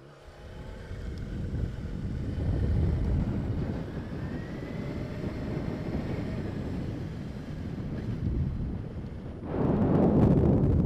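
Yamaha YZF-R6 inline-four motorcycle running at low speed, with wind rushing over the microphone. Near the end the wind rush gets louder.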